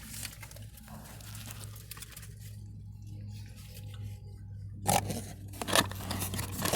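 Biting into and chewing a McDonald's buttermilk crispy chicken sandwich, its fried breading crunching, with a few sharp crunches in the last two seconds. A steady low hum sits underneath.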